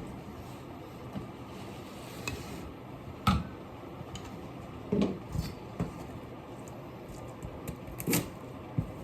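Kitchen items being handled: a few scattered knocks and clatters, the loudest about three seconds in, over a steady low hum.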